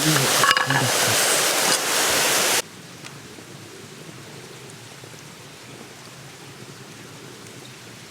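Loud steady hiss that cuts off suddenly about two and a half seconds in, leaving a much fainter steady hiss.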